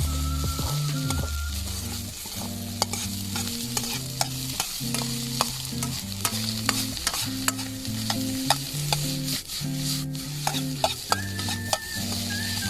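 Fried rice sizzling in a pan over a campfire while being stir-fried, with frequent sharp clicks of a spatula striking and scraping the pan.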